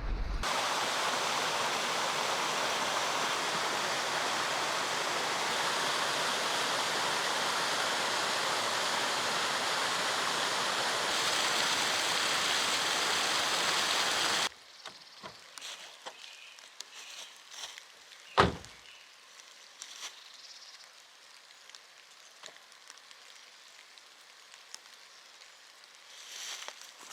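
A steady rushing noise like flowing water that cuts off abruptly about halfway through. A quiet stretch follows with faint scattered clicks and one sharp knock.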